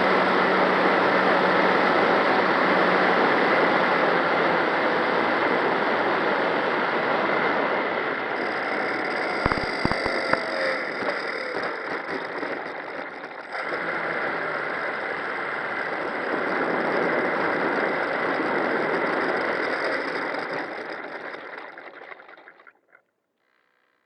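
Radio-controlled MX2 model plane's motor and propeller running steadily with rushing air, as heard from a camera on the plane. A few sharp knocks come about ten seconds in, the level dips briefly a little past halfway, and the sound dies away over the last couple of seconds.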